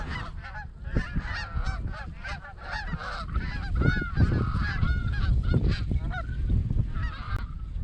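Many overlapping Canada goose honks, short rising-and-falling calls tumbling over one another without a break, over a steady low rumble.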